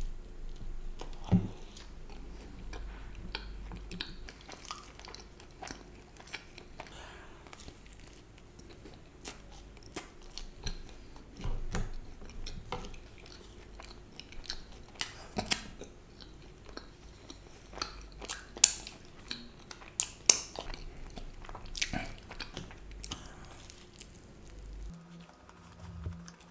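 A person chewing and biting food close to a microphone: irregular wet mouth noises broken by many sharp clicks and crackles, the sharpest about a second in and again past the middle.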